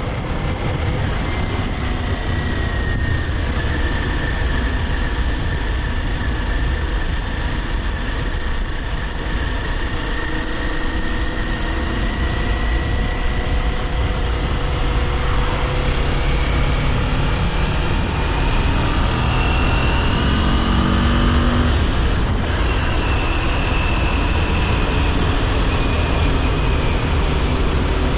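Kawasaki Ninja 400 parallel-twin engine running while riding, its pitch drifting with speed and rising as it accelerates about two-thirds of the way through, over steady wind and road noise.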